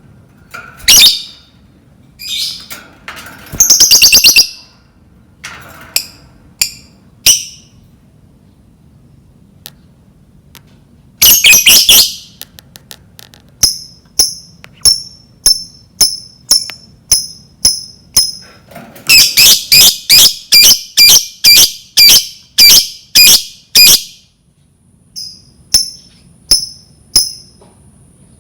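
Lovebird calling: loud, shrill chirps and squawks in short bursts, including a run of rapid repeated chirps about two to three a second past the middle.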